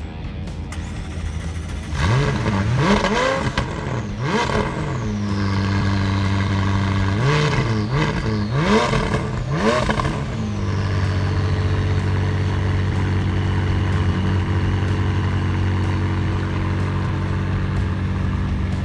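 McLaren 675LT's 3.8-litre twin-turbo V8 revved in six quick blips, two groups of three, its pitch shooting up and falling back each time. After the revs it settles into a steady idle.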